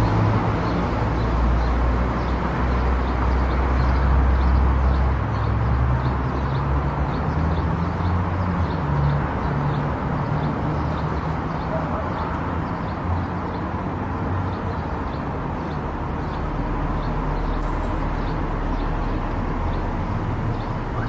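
Car driving on a highway: steady road and engine noise with a deep rumble. A faint regular ticking, about two or three a second, runs underneath.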